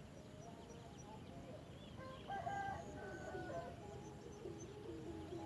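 Birds calling: a run of short, clucking pitched calls starting about two seconds in, with faint high chirps over a steady outdoor background.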